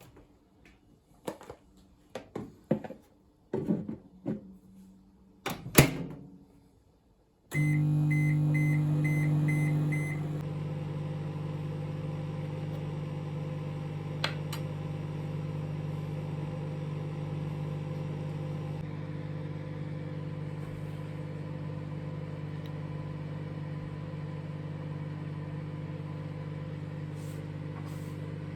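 Clicks and knocks of handling for several seconds, then a microwave oven starts running with a steady hum, a quick row of short beeps sounding as it starts. The hum drops a little a couple of seconds later and carries on evenly.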